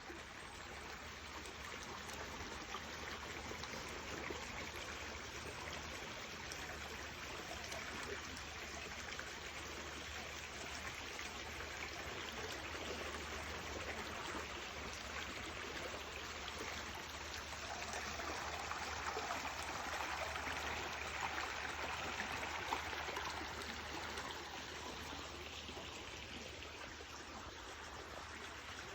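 Water running steadily in a stream, a little louder past the middle.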